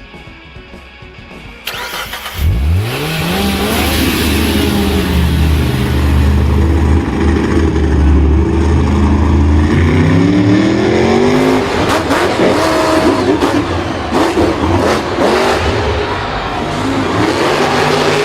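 A vehicle engine starts up about two seconds in and revs, its pitch sweeping up sharply, then droning, falling and climbing again.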